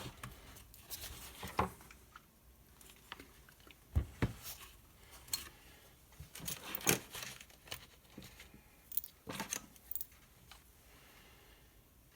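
Scattered clicks, taps and light clatter of chainsaw parts and small screws being handled during reassembly, with sharper knocks about four seconds in and again near seven seconds.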